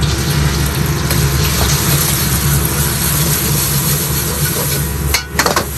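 Steady loud noise of a restaurant kitchen's gas wok burner and exhaust hood, with a low hum. A little after five seconds the noise dips and a few sharp knocks follow, like a ladle striking the wok.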